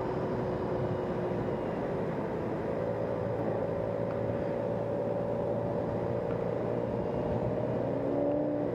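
Steady road noise of a moving vehicle: an even hum with a few faint steady tones.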